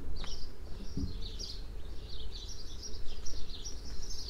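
Birds chirping in a rapid, continuous run of short high chirps over a steady low outdoor rumble, with a soft low knock about a second in.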